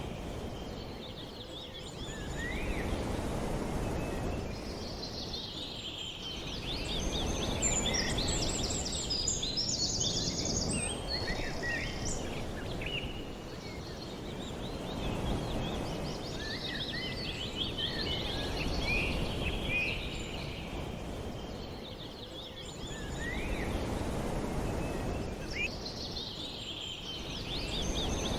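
A chorus of small birds chirping and trilling, with many short, quick calls overlapping, over a low rushing noise that swells and fades every few seconds.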